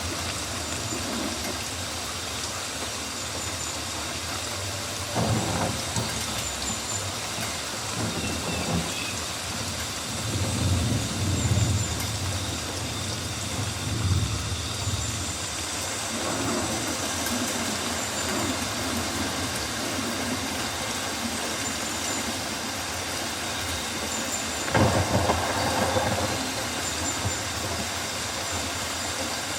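Rainforest ambience: steady rain falling on foliage, with faint short high chirps repeating throughout. Several low rumbling swells come and go in the middle, and a louder burst of noise comes near the end.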